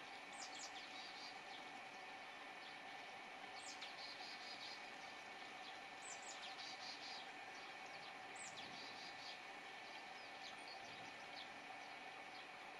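A songbird singing the same short phrase about every two and a half seconds, four times: a high falling note followed by a quick run of notes. A steady faint hum lies underneath.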